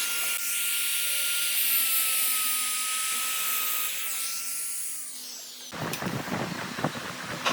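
An electric power tool running with a steady high whine. About two thirds in it cuts off abruptly and an irregular crackling, scraping noise follows.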